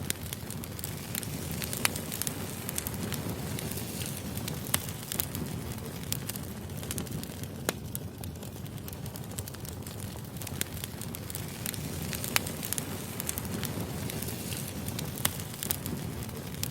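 Firewood burning: a steady low rumble of flames with scattered sharp crackles and pops, a few of them louder.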